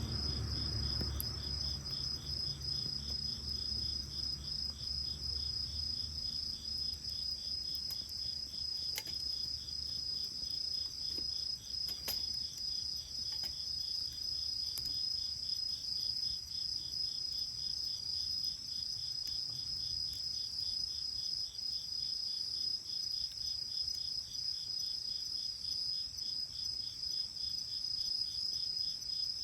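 Crickets trilling steadily in a fast, even pulse, with a few faint sharp pops from the bonfire. A low rumble fades away over the first few seconds.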